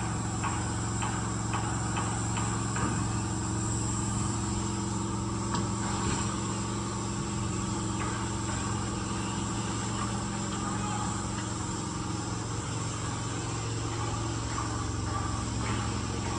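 A steady engine hum at a constant pitch, with a few faint, evenly spaced clicks in the first three seconds.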